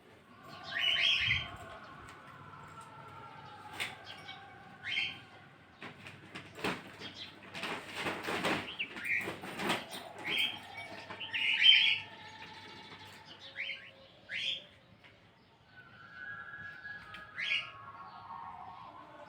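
Birds chirping in repeated short calls, with a few seconds of rustling noise in the middle.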